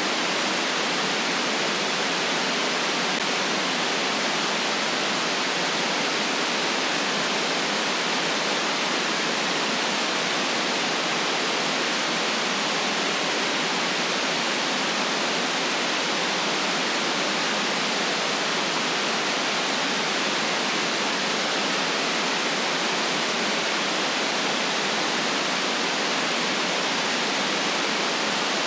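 Steady white noise: an even, unchanging hiss with no deep rumble.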